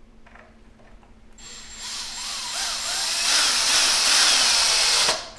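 Power drill running for about three and a half seconds, starting about a second and a half in with a steady high whine, and cutting off just before the end.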